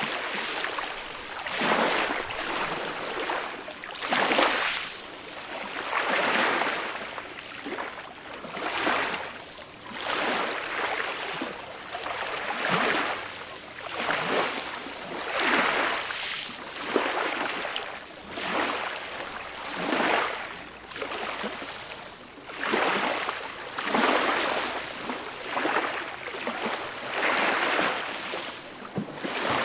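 Small, gentle sea waves washing up on a beach, a rushing wash that swells and fades again and again, about one surge every two seconds.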